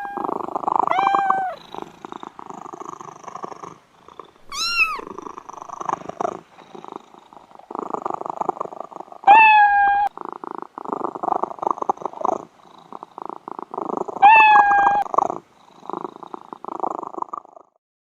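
Domestic cat purring in a rapid rattling rhythm, broken by four short meows that rise and fall in pitch.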